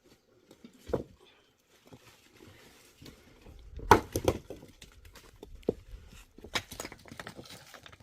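Irregular knocks and clatters from objects being handled: one about a second in, a louder cluster about four seconds in, and a few more near the end.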